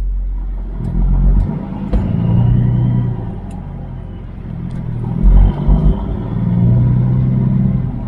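Semi truck's Caterpillar diesel engine running on the road, its note swelling and easing twice. Two short, heavy low thumps come about one and five seconds in.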